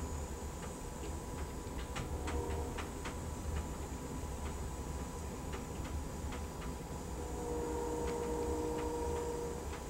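Moving passenger train heard from inside a car: a steady low rumble with irregular clicks and ticks. A high wheel squeal is held for about two seconds near the end.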